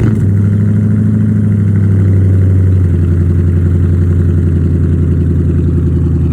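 A 2001 Ford Mustang GT's 4.6-litre two-valve V8 running at a fast idle right after a cold start in freezing weather; the idle eases down slightly about three seconds in.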